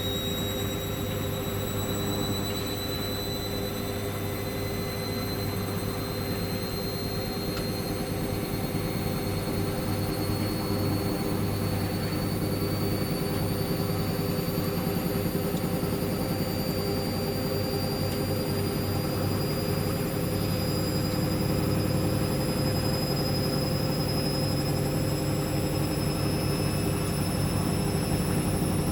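Hoover washing machine's motor whining during the final spin, the whine rising slowly and steadily in pitch and getting a little louder as the drum speeds up towards 1400 rpm.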